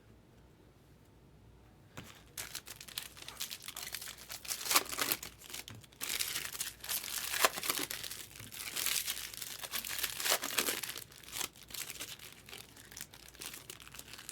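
Packaging crinkling and tearing as it is handled and opened. It is near quiet for the first two seconds, then a run of irregular crackles follows.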